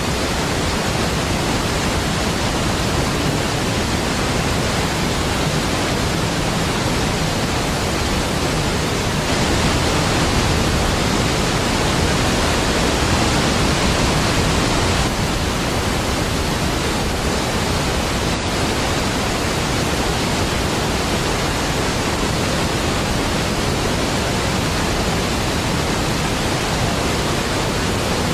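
Niagara Falls, a large waterfall, in a steady, dense rush of falling water that fills the lows and highs alike. The rush swells slightly for several seconds in the middle.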